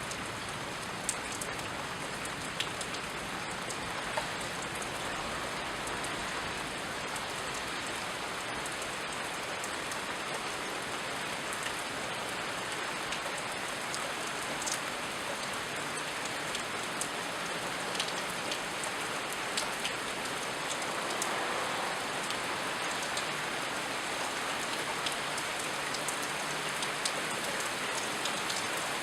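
Steady rain falling, an even hiss with scattered sharp ticks of individual drops hitting nearby surfaces.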